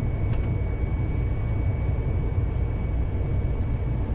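Steady low drone of a semi-truck's engine and road noise, heard from inside the cab while driving, with a faint steady high whine and a single click about a third of a second in.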